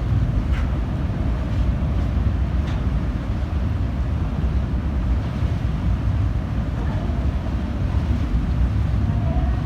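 Steady low rumble with wind buffeting the microphone on board a car ferry, the sound of the ship under way with water and wind around it.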